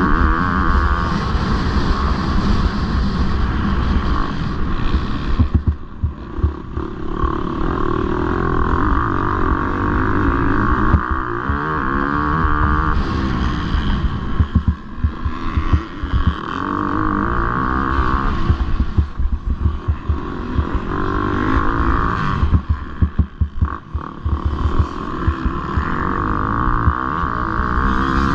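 Motocross bike engine revving hard and rising and falling in pitch as the rider works the throttle, with the throttle chopped off briefly about three times before picking up again.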